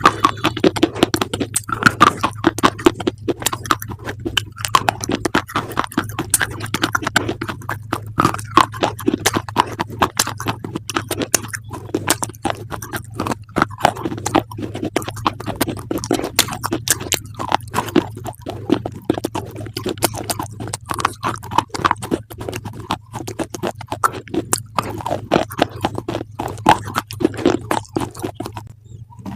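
Close-up crunchy chewing: a continuous run of sharp, crackling bites of crisp food, over a steady low hum.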